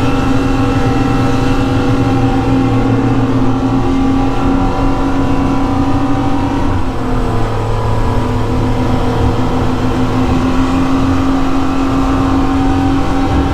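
Twin Suzuki outboard motors (700 hp combined) running hard at speed, a steady engine drone over rushing noise, with a brief dip and wobble in pitch about seven seconds in.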